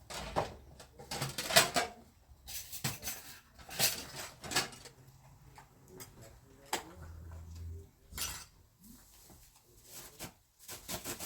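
Irregular clattering and clinking of hard objects being handled, a dozen or so sharp knocks in uneven bunches, the loudest about a second and a half in.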